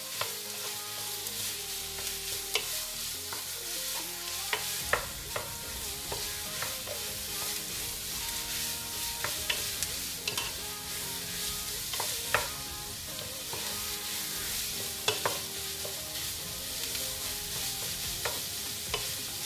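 Minced beef and onions sizzling in a nonstick pot while being stirred with a wooden spatula, the spatula knocking against the pot now and then.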